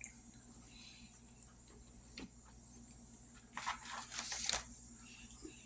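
Eating sounds: a few faint soft clicks, then a short cluster of louder clicks and scrapes about three and a half to four and a half seconds in.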